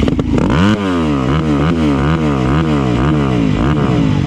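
Dirt bike engine revving up and down over and over, its pitch rising and falling about twice a second.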